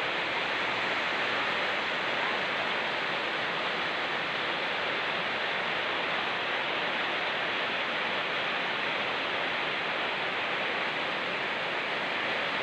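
Steady rushing noise of rain together with a fast-flowing mountain stream, even and unbroken throughout.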